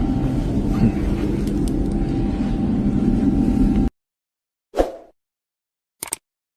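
Engine running steadily: a loud rumbling noise with a low hum and a thin steady whine, which cuts off abruptly about four seconds in. Then silence broken by two short isolated sounds, one just under a second after the cut and one about two seconds after it.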